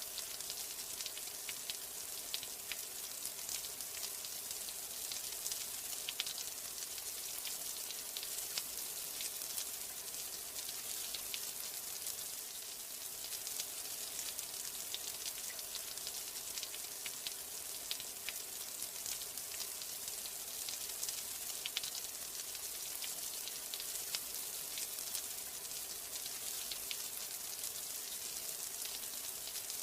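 Steady rain: a dense hiss of falling drops with many small, irregular ticks of individual drops striking a surface.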